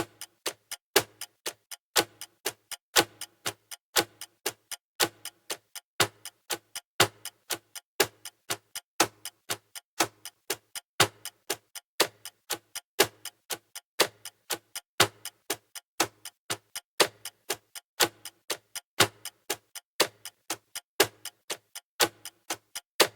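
Clock-style ticking of a countdown timer: a steady run of sharp ticks, several a second, with a louder tick on each second.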